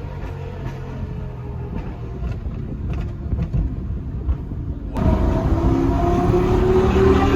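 Lamborghini Gallardo Superleggera's 5.0-litre V10 running through an aftermarket exhaust while warming up from a cold start: a low idle rumble with a few sharp ticks. About five seconds in it jumps abruptly louder, the engine note higher and slowly climbing.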